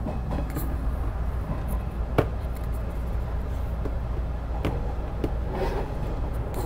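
Steady low rumble of a train with scattered light clicks and knocks, one sharper knock about two seconds in.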